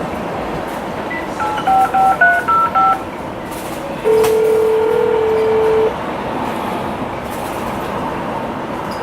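Telephone keypad tones as a number is dialed, a quick run of about seven short beeps, then a single ring of the ringback tone lasting about two seconds, over a steady hiss.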